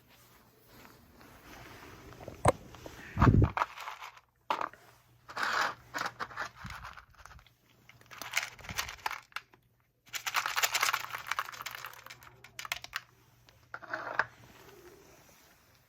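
Crinkly packaging being handled: rustling and crackling in irregular bursts, with a sharp click and then a heavier knock about three seconds in.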